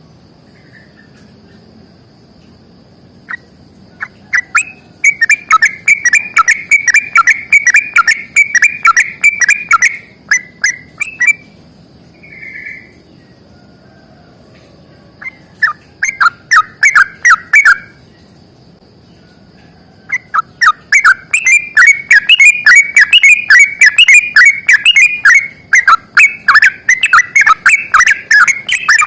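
Sooty-headed bulbul (trucukan) singing long runs of rapid, chattering repeated notes. It sings three bursts of several seconds each, with short pauses between them, and the last and longest starts about two-thirds of the way through.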